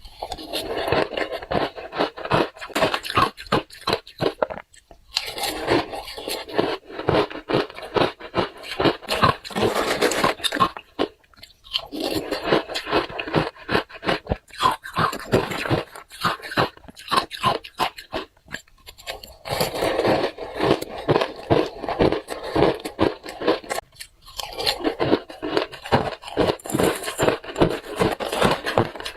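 Close-up crunching and chewing of hard ice: bites and grinding crackles in runs of a few seconds, with short pauses between mouthfuls.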